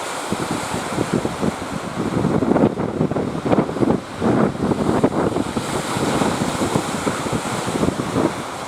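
Strong wind buffeting the microphone in irregular gusts over the sound of surf.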